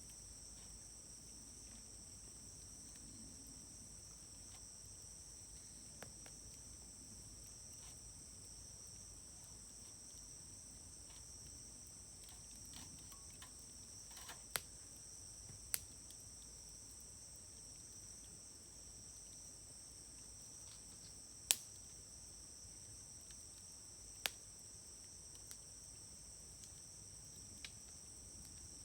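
Wood fire popping sharply now and then, about half a dozen pops with the loudest a little after two-thirds of the way through, over a steady, high insect chirring.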